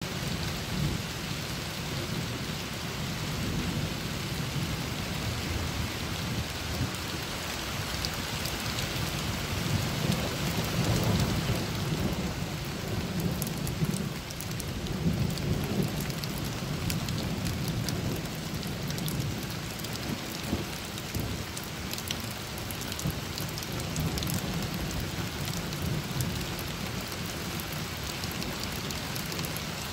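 Steady rain falling, with scattered drops ticking on nearby surfaces over a low rumble.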